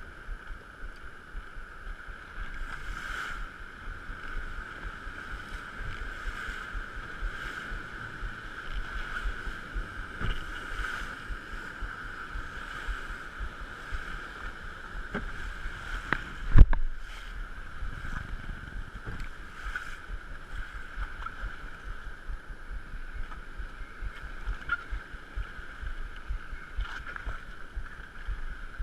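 A boat engine running with a steady drone, while wind buffets the microphone in gusts. A single sharp knock sounds about halfway through.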